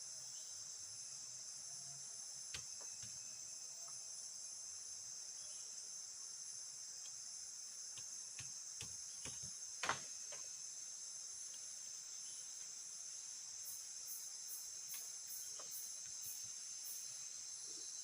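Steady, high-pitched chorus of forest insects, crickets or cicadas, with a few sharp clicks and one louder knock about ten seconds in. Near the end another insect joins with short high chirps, about two or three a second.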